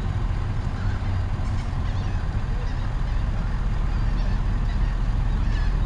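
Birds calling in short rising-and-falling calls, a few about two seconds in and more near the end, over a steady low rumble.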